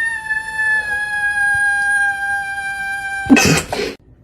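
An animal's long, high-pitched call held steady for about three and a half seconds, sinking slightly in pitch, then cut off by a short, loud, noisy burst.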